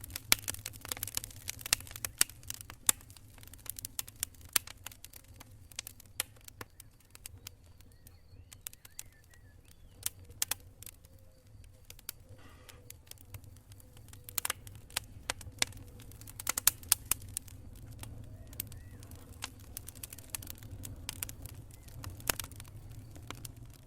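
Wood campfire crackling: irregular sharp pops and snaps, some in quick clusters, over a faint steady low rumble.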